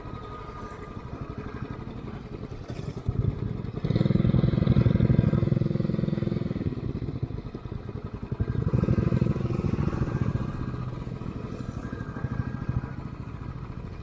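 Motorcycle engine running on the move, with the throttle opened twice: it gets louder about 4 seconds in and again about 8 seconds in, then eases off.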